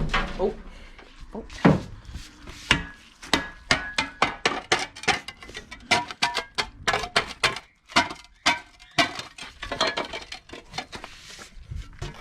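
Garden spades and other shed tools being rummaged through and knocked together: a rapid, irregular run of wooden knocks and metallic clinks, some ringing briefly, thinning out near the end.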